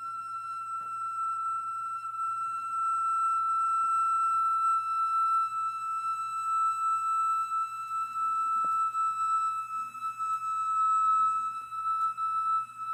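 Iwabue, a Japanese natural stone flute, holding one long high note with a slight waver in pitch, growing louder a few seconds in.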